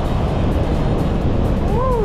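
Steady riding noise from an FT150 motorcycle under way, its single-cylinder engine mixed with wind on the microphone, under background music. Near the end, a short tone rises and then falls.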